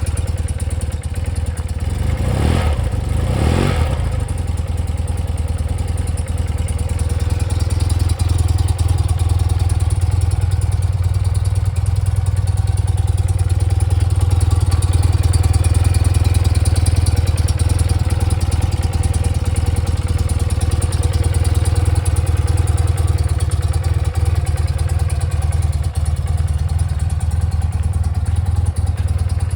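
1992 BMW R100GS PD's air-cooled boxer twin idling steadily while still cold, running on half choke.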